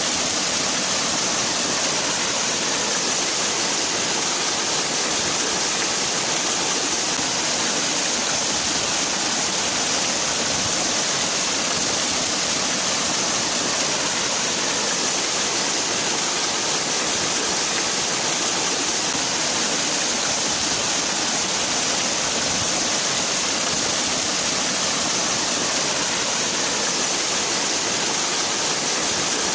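Waterfall: water falling and rushing in a steady, unbroken hiss, strongest in the high register.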